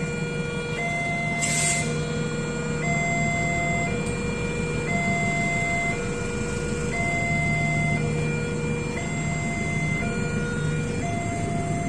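Two-tone electronic warning alarm alternating steadily between a lower and a higher tone, each held about a second, over a steady low hum. A brief hiss sounds about a second and a half in.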